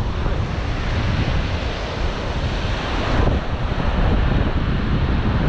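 Wind buffeting the microphone over the steady wash of sea surf, with a brief swell a little past three seconds in.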